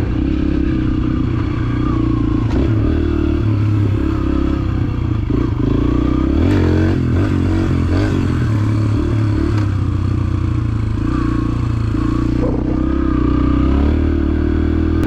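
A 125 cc dirt bike's engine running under throttle while being ridden, its pitch stepping up and down with throttle and gear changes. There are occasional knocks and rattles from the bike over rough ground.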